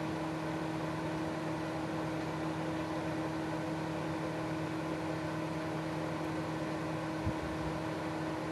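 Microwave oven running with a steady hum, with one faint thump about seven seconds in.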